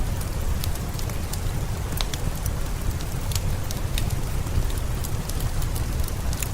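Steady rain with a deep rumble underneath and many short, sharp ticks scattered through it, mixed with a fireplace crackling.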